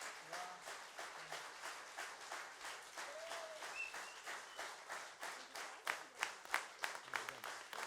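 Audience applauding: a dense patter of many hands clapping, with a few louder single claps about six seconds in and brief calls from the crowd.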